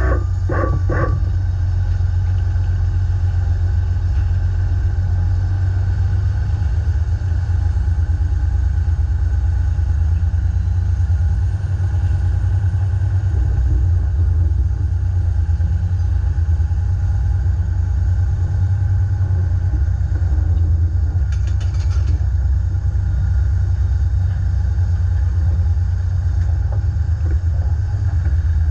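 Dump truck engine running steadily under load, a deep, even low drone.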